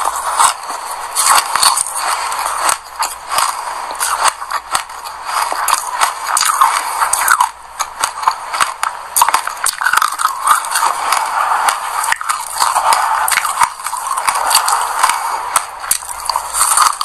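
Close-up chewing of mouthfuls of dry sesame seeds: a dense, rapid crackling crunch that runs in bursts, with short lulls between bites.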